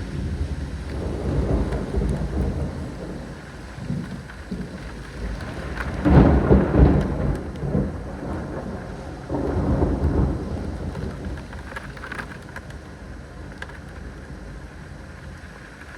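Thunder rumbling in rolling waves, loudest about six seconds in and again about ten seconds in, then dying away, over steady rain.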